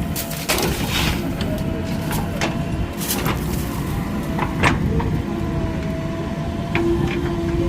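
Heavy construction machinery's diesel engine running steadily, with several sharp clanks or knocks over the top and a faint steady whine.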